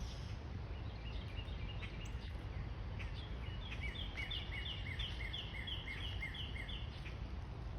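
A songbird singing a rapid series of repeated down-slurred high notes, about three a second, for roughly three seconds in the second half, with a few faint chirps before it. A steady low rumble of outdoor background noise runs underneath.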